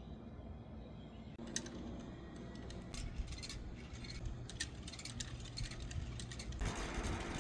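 Light clicks and rattles, as of small hard objects being handled, scattered irregularly from about a second and a half in, over a low steady rumble.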